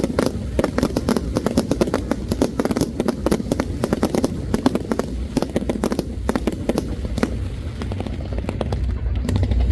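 Fireworks going off in a dense, rapid run of many sharp bangs and crackles over a low rumble.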